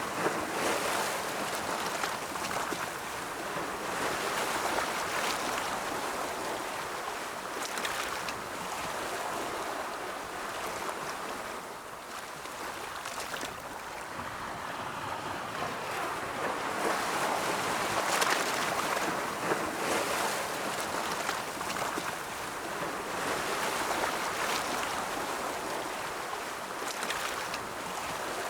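Ocean surf washing continuously, swelling and easing as waves roll in, with a few brief sharper splashes.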